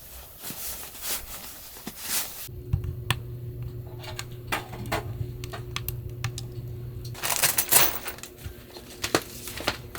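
Irregular light clicks and taps of objects being handled. A low steady hum comes in about two and a half seconds in and stops about seven seconds in.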